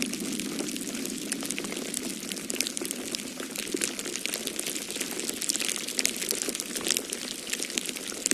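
Wood fire in a fireplace crackling, with many sharp, irregular pops and snaps, over a steady low rush of storm wind.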